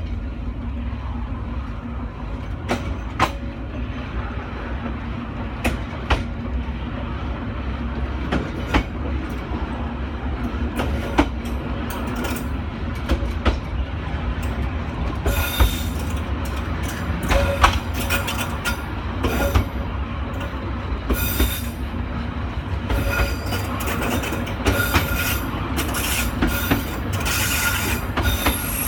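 Train running on the Dalat railway: a steady low rumble with irregular clicks and knocks from the wheels on the track. From about halfway on, the wheels squeal high-pitched again and again.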